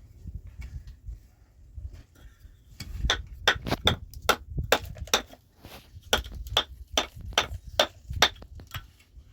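A run of sharp, evenly spaced blows, about two or three a second, starting about three seconds in with a short break midway, like hammering or chopping by hand.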